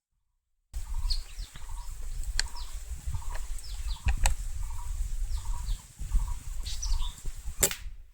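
Birds calling in short, falling chirps, repeated many times, over a low rumble, with a few sharp clicks. The sound cuts in suddenly just under a second in.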